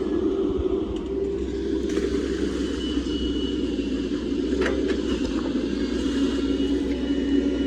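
Hydraulic excavator's diesel engine running steadily, with a faint high whine over it and a brief knock a little past halfway.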